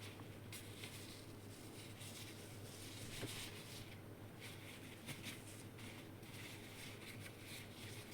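Faint, irregular rustling of fabric over a low steady hum.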